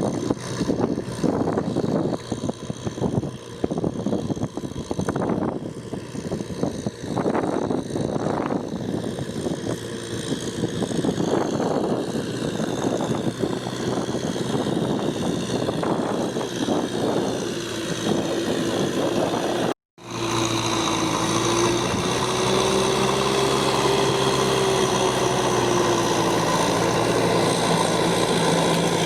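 Tractor engine running in a rice field. For the first two-thirds it is uneven, with many irregular knocks and noises over it. After a break about 20 s in, it runs steadily with a gently wavering hum.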